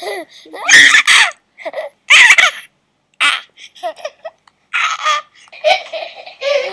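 Baby laughing and babbling in a series of short bursts, the loudest about a second and two seconds in: a played baby sound effect standing in for a reborn doll's voice.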